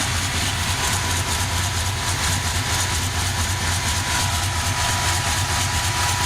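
Chevrolet 350 small-block V8 idling steadily, with a low, even pulsing rumble.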